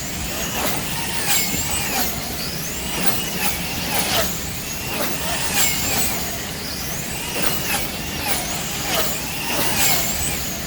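Electric motors of wing-class slot cars whining as the cars run laps. The high whine rises and falls in pitch as the cars come round about every second and a half, with sharp clicks and rattles of the cars on the track.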